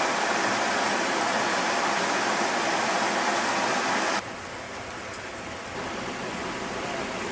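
Steady rushing of a waterfall, cutting suddenly to a quieter rush about four seconds in.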